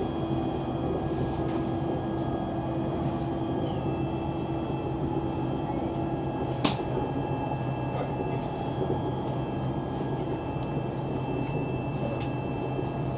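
Steady running rumble of a high-speed train cabin in motion, with the whine of an electric business-class seat motor reclining the seat flat. The whine stops about halfway through, followed by a single sharp click as the seat reaches its end position.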